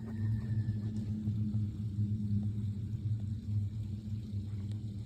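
A deep, steady drone with a slight throb from something unseen flying overhead, sounding propeller-driven, like a massive quadcopter; the speaker calls it the strangest sound.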